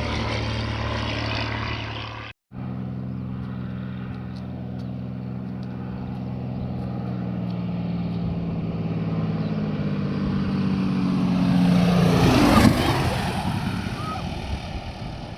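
Single-engine propeller light aircraft running steadily, growing louder as it approaches and passing close about 12 to 13 seconds in, its engine note dropping and fading as it goes by. A brief break in the sound about two seconds in.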